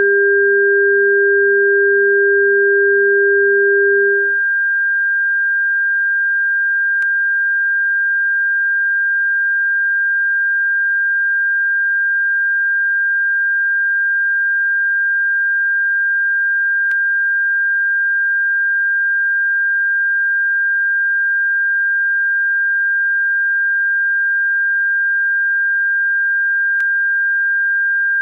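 Electronic bird-repellent tone: a steady, high, whistle-like pure tone, with a second, lower steady tone under it that stops about four seconds in. Faint clicks come about every ten seconds.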